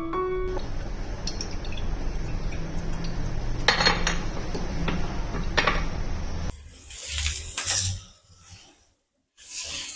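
Kitchen clatter: dishes and utensils knocking now and then over a steady hiss, with louder, noisier handling sounds in the last few seconds.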